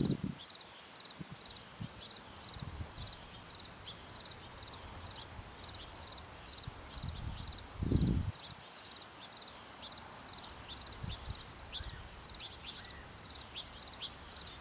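Steady, finely pulsing high-pitched insect chorus, with a few short chirps over it and a single low dull thump about eight seconds in.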